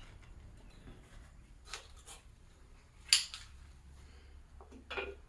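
A few light metallic clicks and clinks from handling a piston ring while fitting it into the cylinder bore to check its end gap, the loudest a little past halfway.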